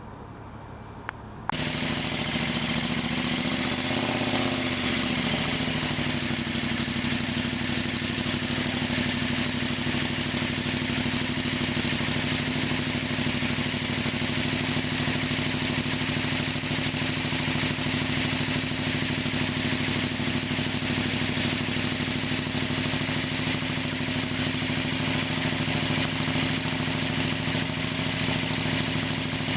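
A motor engine running steadily at a constant speed. It cuts in abruptly about one and a half seconds in, and its pitch wavers briefly a couple of seconds later.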